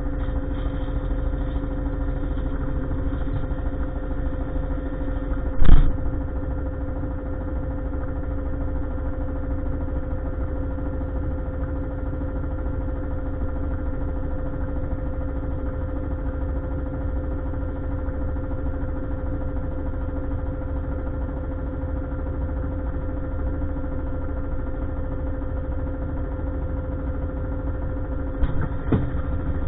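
Heavy truck engine idling steadily, with one sharp loud clank about six seconds in and a few lighter knocks near the end.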